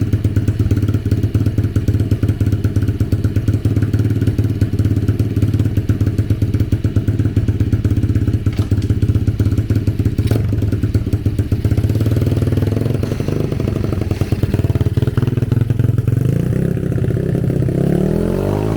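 125cc dirt bike engine running at a steady idle, its revs climbing near the end.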